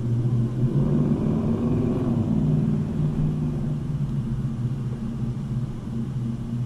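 A motor vehicle's engine running with a steady low hum, its pitch wavering briefly about two seconds in.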